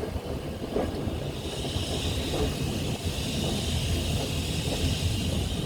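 Railway train rumbling, with wind buffeting the microphone and a steady hiss coming in about one and a half seconds in.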